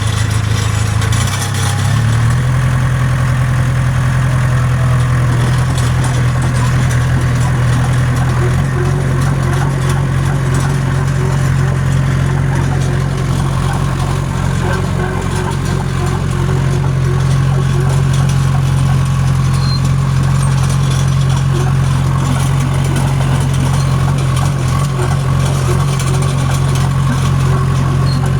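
John Deere crawler dozer's diesel engine running steadily at a constant speed, with a small rise in engine speed about two seconds in.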